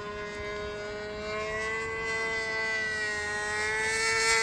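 RC model airplane's Super Tiger two-stroke glow engine whining steadily in flight on its approach to land, the pitch wavering a little and growing louder near the end as the plane comes closer.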